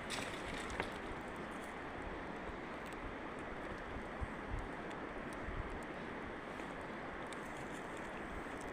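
Wood campfire burning, with a few small sharp crackles over a steady rushing noise.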